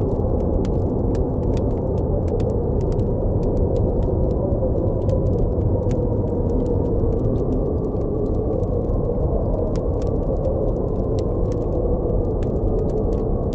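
Blizzard wind blowing as a steady low rush with a faint wavering whistle in it, over the scattered small pops and crackles of a campfire.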